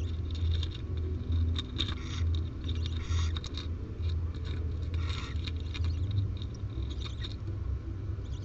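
Scratching and rustling in a barn owl nest box as the owl shifts about among the newly hatched owlets, in irregular short strokes over a steady low hum.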